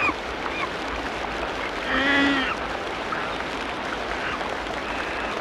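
Tropical rainforest ambience: a steady dense background hiss with scattered short bird chirps. About two seconds in comes one louder animal call lasting about half a second.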